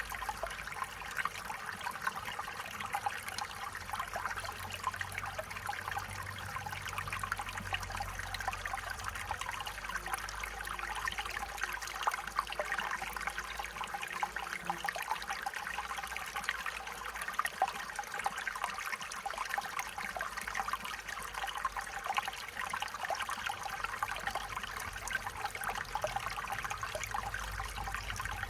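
Stream water trickling and burbling steadily over stones, a dense patter of small splashes.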